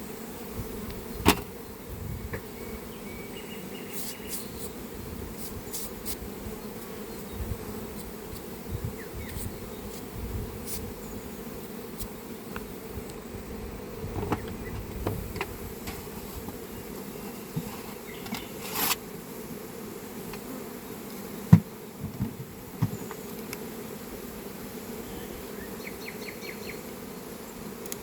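Honeybees buzzing steadily in a dense hum, with a few sharp knocks and clicks, the loudest about three-quarters of the way through.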